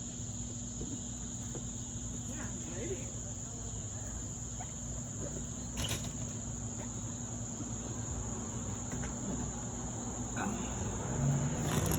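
Insects trilling in a steady high drone, over a low steady hum and rumble, with a single sharp click about six seconds in.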